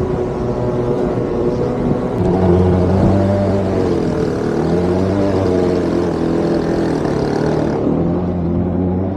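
Motorized surfboard engine running, its pitch wavering up and down with the throttle. A deeper, steadier engine note comes in about two seconds in.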